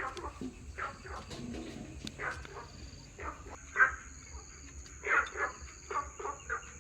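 Short animal calls, repeated irregularly every half second to a second, with one louder call near the middle. A steady high thin tone runs underneath.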